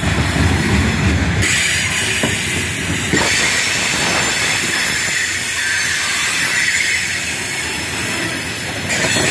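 Loaded coal hopper cars of a freight train rolling past at close range: a steady rush and hiss of steel wheels on rail, with a few faint knocks.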